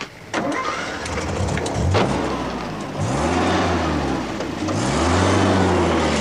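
Car engine accelerating hard as the car pulls away. Its pitch climbs and breaks off three times as it shifts up through the gears, over a steady hiss.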